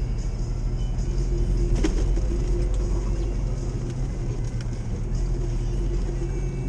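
Old Jeep driving, heard from inside the cab: a steady low drone of engine and road noise. A single sharp click about two seconds in.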